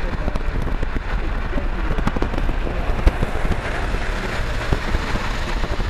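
Autorack freight cars rolling past: a steady low rumble with a dense, irregular clatter of wheels on the rails.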